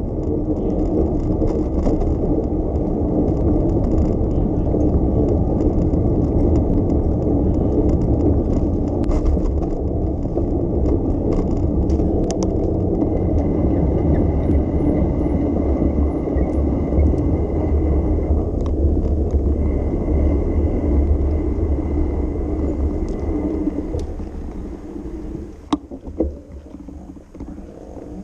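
Steady low rumble of a bicycle being ridden, with a faint steady whine through the middle. It eases off near the end, where a few sharp clicks sound.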